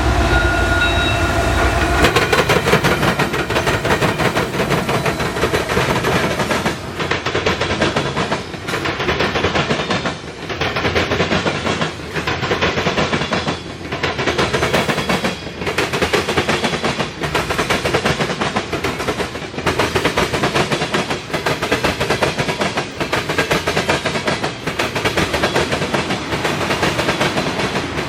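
A freight train's cars rolling past, wheels clattering on the rails. The sound dips and swells regularly, about every second and a half to two seconds, as each car goes by. For the first couple of seconds there is a heavier low rumble with steady tones, likely the tail of the locomotives.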